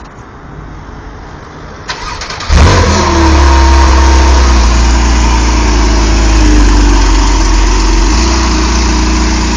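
Porsche 911 Carrera 4S flat-six engine starting: a short crank, then the engine catches about two and a half seconds in and runs loud and steady at idle.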